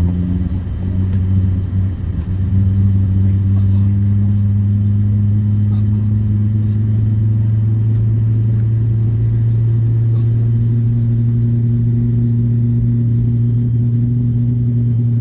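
Loud, steady low hum of an Airbus A350-900 airliner heard from inside the cabin on the ground before takeoff: a deep drone with a second tone above it, and a slightly higher tone coming up near the end.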